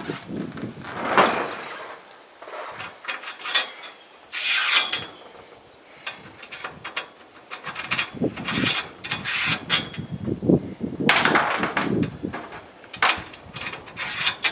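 Irregular knocks, scrapes and rubbing from hands-on work with mounting hardware, a dozen or so separate handling noises at uneven intervals.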